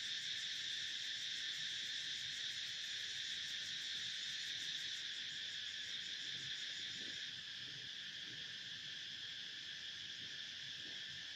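Steady high-pitched chorus of insects, like crickets, trilling without a break; it eases slightly after about seven seconds.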